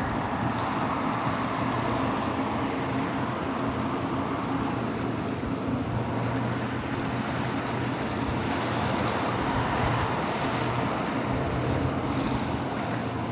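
Boat engine running steadily as a powerboat goes through the inlet, with waves breaking and wind buffeting the microphone.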